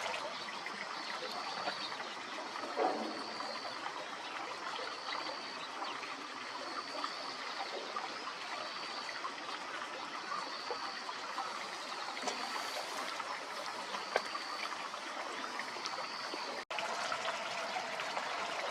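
Steady trickling, running-water noise, like a stream, with a short high chirp repeating evenly about once a second. The sound drops out for an instant near the end.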